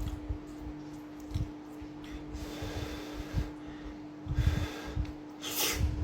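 A person eating close to the microphone, with soft mouth and handling noises and audible breathing through the nose, then a sharp sniff near the end. A steady low hum runs underneath.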